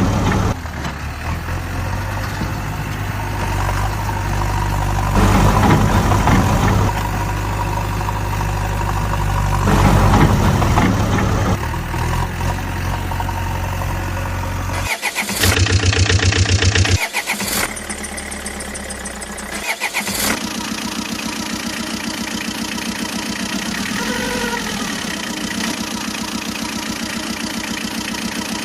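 Vehicle engine running, swelling louder and easing off several times, with abrupt changes partway through before settling into a steady idle.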